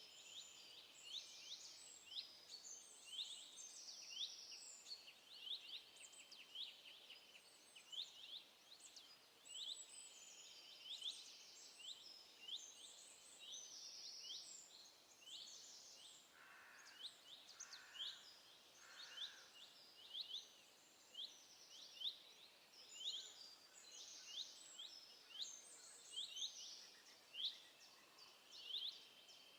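Faint songbirds singing and calling: a dense, overlapping run of short high chirps and trills throughout, with three short lower calls about two-thirds of the way through.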